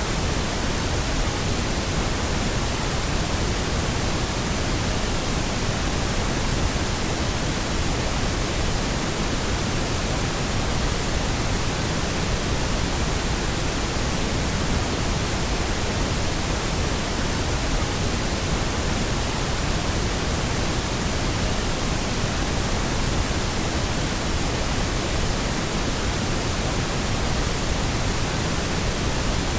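Steady, unbroken pink noise: an even, constant hiss spread across all frequencies, with no changes or events.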